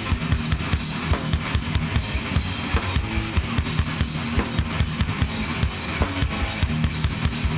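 Live hardcore band playing an instrumental passage with no vocals: loud amplified guitars and bass over a drum kit, the kick and snare hitting steadily about four times a second.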